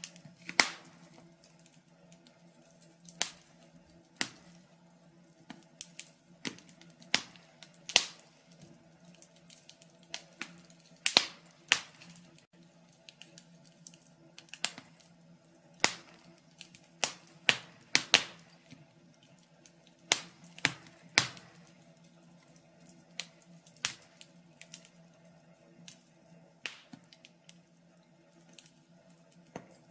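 Log fire crackling: irregular sharp pops and snaps, sometimes several in quick succession, over a faint steady low hum.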